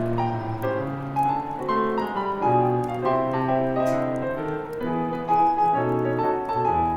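Gentle solo piano music playing a Christmas song arrangement, with chords and a flowing melody, with faint irregular crackling from a wood fire underneath.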